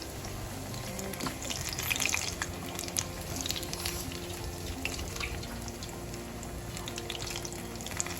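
Sesame-coated chicken pieces frying in hot oil: a steady sizzle with scattered crackling pops.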